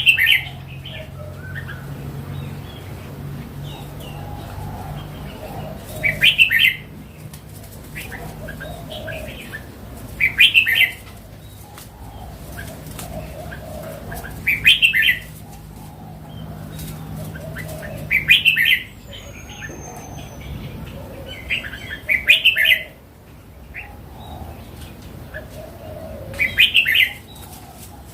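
Red-whiskered bulbul singing: a short, loud, bright phrase repeated seven times, about every four seconds, with softer chattering between phrases and a faint low hum underneath.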